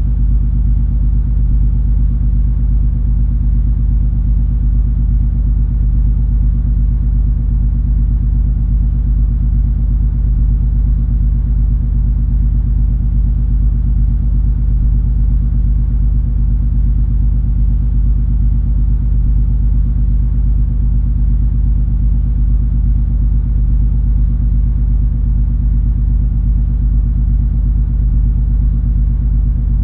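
Steady low drone of the cruise ferry MS Color Magic's diesel engines heard aboard, several unchanging low hum tones over a soft noise, holding constant throughout.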